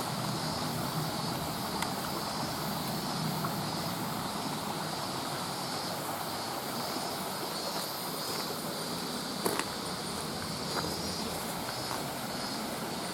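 Mountain stream water rushing steadily, with a few sharp clicks from the camcorder's loose monitor.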